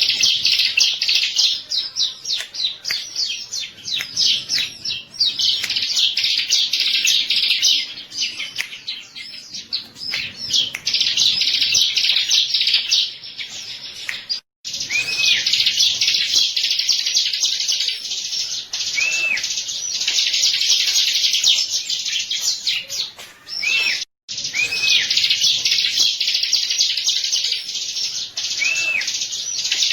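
Bar-winged prinia (ciblek) song: a rapid, dense run of high chirping trills. It cuts out abruptly for a moment twice, near the middle and about two-thirds through, and short arched whistled notes recur every few seconds in the later part.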